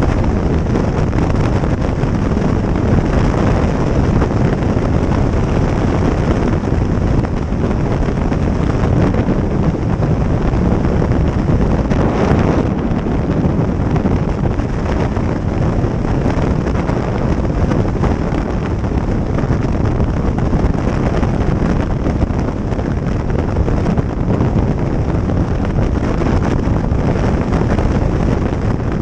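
Steady, loud wind rush buffeting the microphone on a moving motorcycle, with road and engine noise blended underneath.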